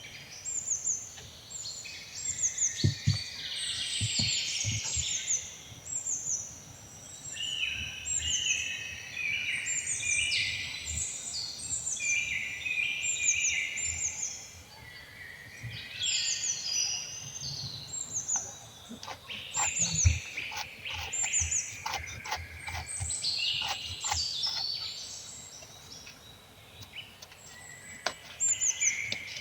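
Small birds chirping, many short repeated calls overlapping throughout, with occasional soft low knocks and a run of clicks about twenty seconds in.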